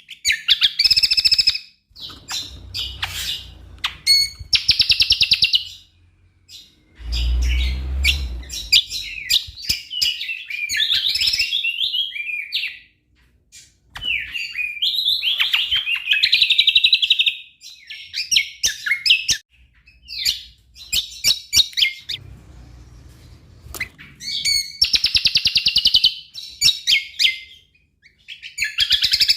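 Cucak kombo songbird singing a loud, varied song full of fill-in phrases: quick chirps, fast buzzy trills and sliding notes, broken by short pauses. A brief low rumble comes about seven seconds in.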